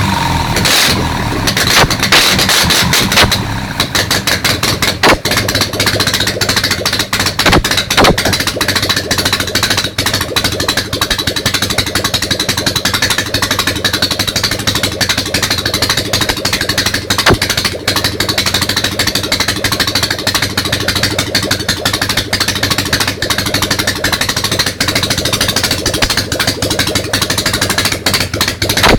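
Ural motorcycle's flat-twin engine running on its first start after a major overhaul, fed by a single carburettor. It runs unevenly for the first few seconds, then settles into a steady run.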